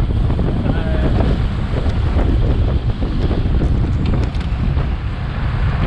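Wind buffeting an action camera's microphone on a bicycle at racing speed: a steady, loud rumble of wind noise.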